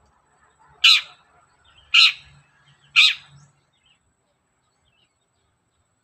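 Long-tailed shrike (cendet) giving three short, harsh calls about a second apart.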